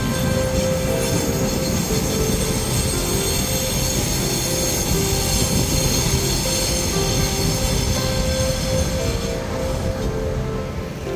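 Electric commuter train rolling across a railway bridge: a steady rumble of wheels on rails that thins out near the end as the train passes, with background music under it.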